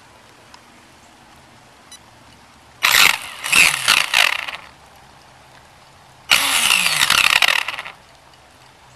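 Helion Invictus electric R/C monster truck driven in two bursts of throttle, each under two seconds, its motor whine falling in pitch as each burst ends.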